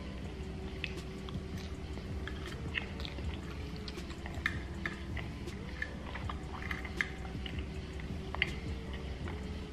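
Close-miked chewing and mouth sounds of a person eating soft pot roast and cabbage, with scattered small sharp clicks, among them a plastic fork working in a glass dish.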